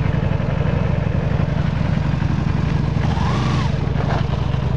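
Motorcycle engine idling steadily close by, an even low rumble with no revving.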